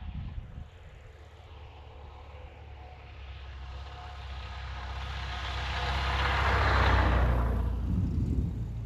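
A light aircraft's propeller engine approaching and passing close, growing steadily louder to a peak about seven seconds in, then fading.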